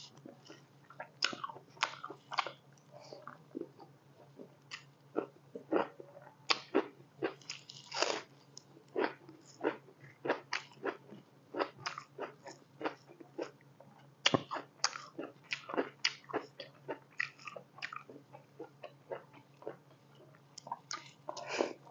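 Close-up chewing of a mouthful of pork curry and rice: wet mouth clicks and smacks coming irregularly, a few per second, over a faint steady low hum.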